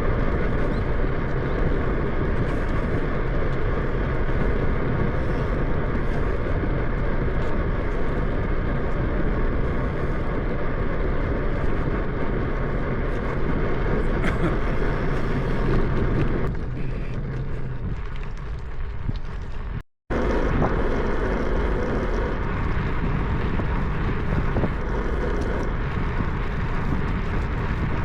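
Steady wind rush and road noise from riding a bicycle, heavy and low on the microphone. It eases off for a few seconds, cuts out for an instant about 20 seconds in, then resumes.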